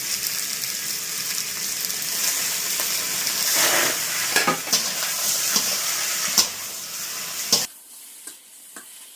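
Seafood sizzling and frying in a hot pan while being stirred, with sharp clicks of the utensil against the pan. The sizzle cuts off suddenly near the end, leaving only a few faint clicks.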